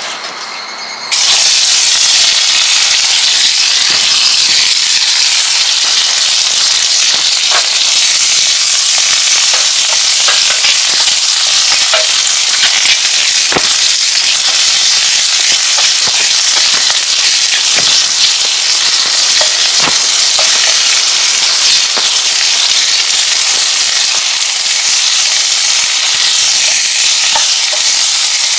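Food sizzling in a hot pan: a steady hiss with scattered small pops, starting abruptly about a second in.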